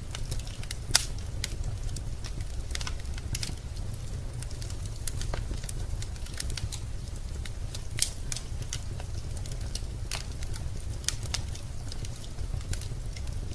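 Wood fire crackling in a fireplace: scattered sharp pops and snaps over a steady low rumble, with the loudest snaps about a second in and again about eight seconds in.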